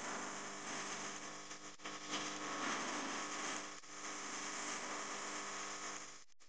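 A motor running steadily under a hissing noise, cutting off abruptly near the end.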